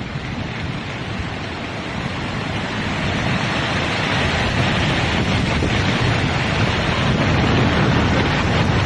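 Strong storm wind rushing and gusting, buffeting the microphone with a low rumble, and growing steadily louder.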